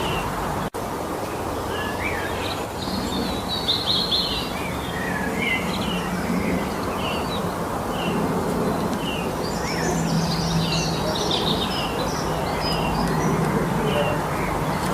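Several forest songbirds singing and chirping, many short high notes and trills overlapping throughout, over a steady background hiss. The sound cuts out for an instant about a second in.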